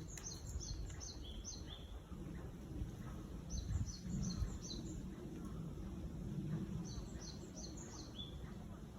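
A small songbird singing three bursts of quick, high, downward-sliding chirps, each run of five or six notes ending on a couple of lower ones, over a steady low background rumble.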